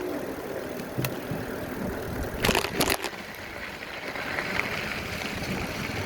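Riding noise from a bike on a trail: steady wind on the microphone and tyres rolling, with a few sharp rattling clacks about two and a half seconds in.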